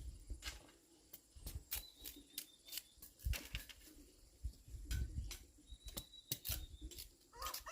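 Irregular sharp clicks and taps with occasional low thumps, as objects are handled close by. A rooster starts crowing at the very end.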